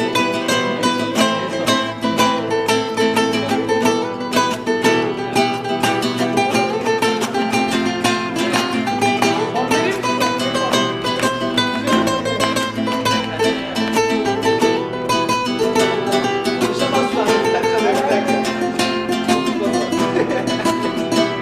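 Plucked string instrument, guitar-like, played in a free improvisation: a steady stream of quick picked notes, fairly loud and even throughout.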